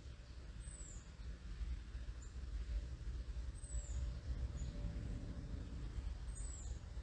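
Low, steady rumble of a distant airplane overhead, with a small bird's very high, thin, down-slurred calls repeating about every three seconds and a few short high notes between them.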